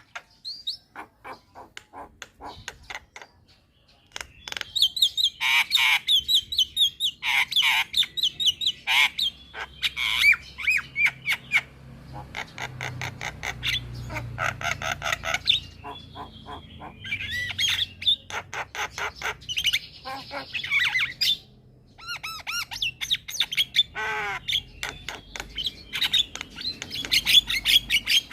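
Javan myna (jalak kebo) singing: a rapid chattering song of clicks, harsh squawks and whistled notes in bursts, with short pauses between phrases.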